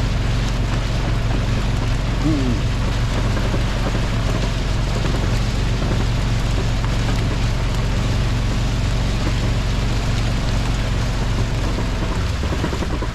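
Steady rushing noise of a rain-swollen creek's flowing floodwater, with a low rumble that drops away near the end.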